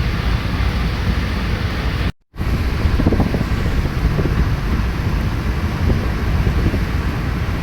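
Strong wind buffeting the microphone: a steady, loud rushing rumble. About two seconds in it cuts out completely for a moment, then resumes.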